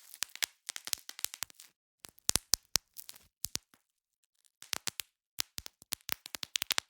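Bubble wrap being popped: quick clusters of sharp pops and crackles, with a short pause about four seconds in.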